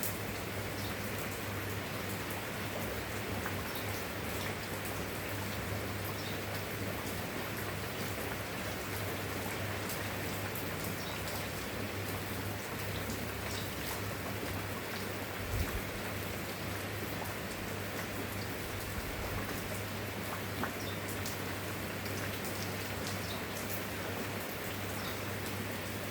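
Steady rain, an even hiss with scattered individual drop ticks, over a constant low hum. One brief low thump about sixteen seconds in.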